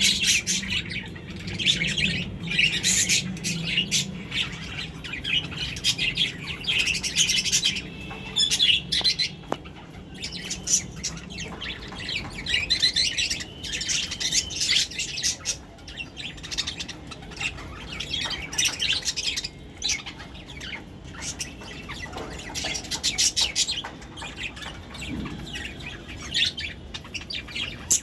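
Pet budgerigars chattering and chirping, a continuous stream of quick, rapidly changing chirps.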